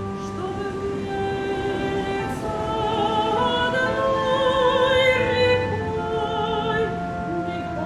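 Operatic singing over classical accompaniment: a voice holds long notes with vibrato, swelling to its loudest about five seconds in.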